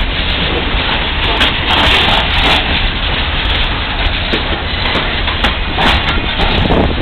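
A freight train passing, a steady loud rumble with scattered short knocks and rattles, with wind noise on the microphone.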